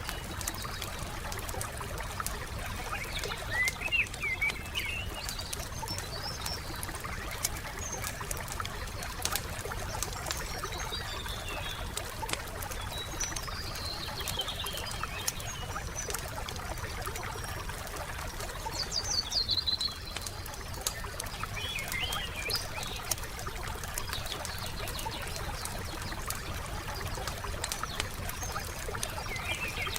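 Wood fire crackling with frequent small pops over a steady low rushing hiss, while small birds chirp in short phrases every few seconds, the loudest burst of chirping about two-thirds of the way through.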